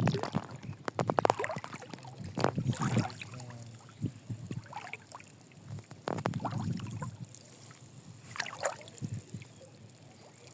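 Water splashing in irregular bursts as netted fish thrash, with clusters of sharp slaps. The loudest splashing comes in the first second or so, with further bursts a few seconds apart.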